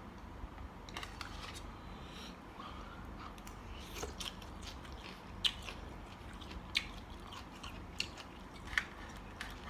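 A person chewing and biting food, spicy Thai mixed seafood salad of squid and shrimp, with a few short sharp clicks scattered through.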